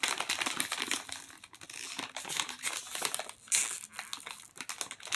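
Plastic snack bag of Calbee shrimp chips crinkling as it is handled, in dense irregular crackles, loudest about three and a half seconds in.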